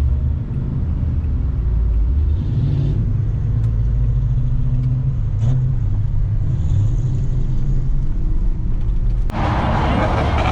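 Car engines rumbling with a wavering pitch. About nine seconds in, a loud rushing noise cuts in suddenly.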